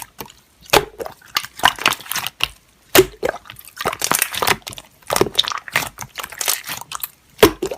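Slime being squished and pressed by hand: an irregular string of wet clicks, pops and crackles.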